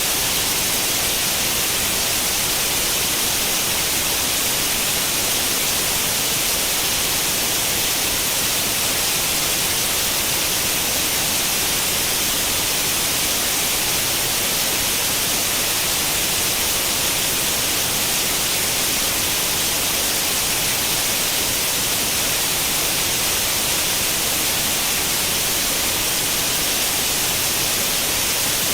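Steady TV static: the hiss of an old tube television tuned to no channel, even and unchanging, strongest in the high frequencies.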